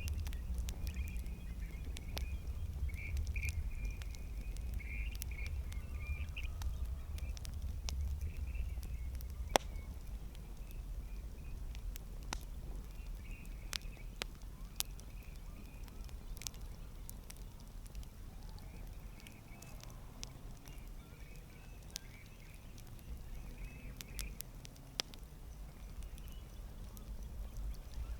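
Campfire crackling: irregular sharp pops and snaps of burning wood, with one loud snap about a third of the way through, over a low steady rumble.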